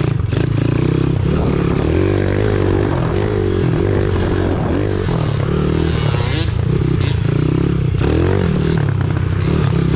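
Pit bike engine running under load, its pitch rising and falling as the throttle is worked, with scraping and clattering noises over it.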